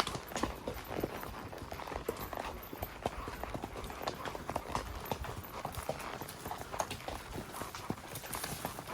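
Horse hooves clip-clopping in quick, irregular hoofbeats, from a spotted saddle horse.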